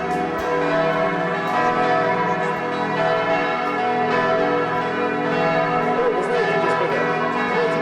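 Church bells ringing, many overlapping tones sounding together with a fresh strike about twice a second.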